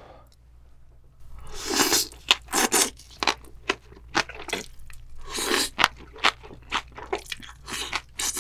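Close-miked eating: crunching and chewing green onion kimchi with jjajang ramen noodles. Quiet for about the first second and a half, then a steady run of loud crunchy bites and chewing.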